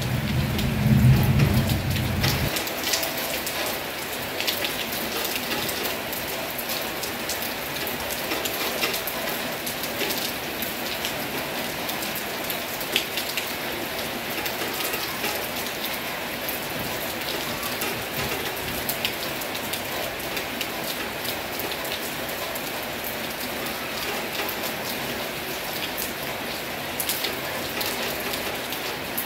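Heavy rain falling steadily, with many separate drop hits on a surface. A deep rumble underlies the first couple of seconds and stops abruptly.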